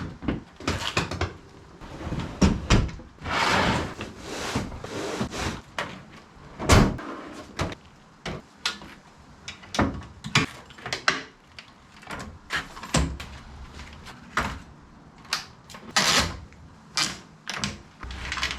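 An irregular run of knocks, clicks and thuds from objects being handled, with short rustling noises between them.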